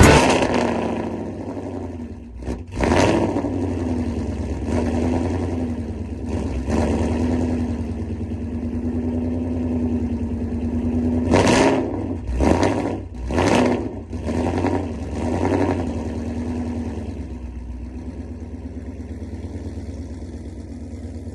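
A car engine idling and revved in short blips several times, with three quick revs in a row about halfway through, then settling back to a steady idle.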